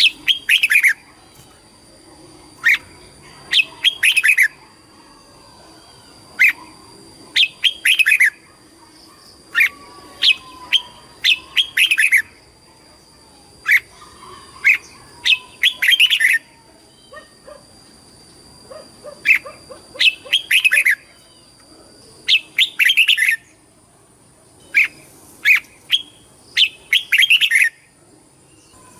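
Red-whiskered bulbul singing: short, bright, warbled phrases repeated every second or two, sometimes two or three in quick succession.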